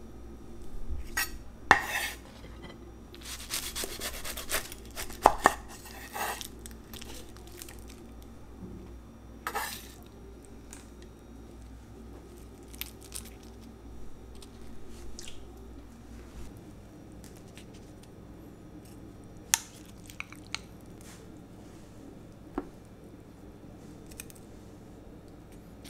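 Kitchen utensils and dishes clinking and scraping, busy for the first several seconds, then only scattered sharp taps and clicks.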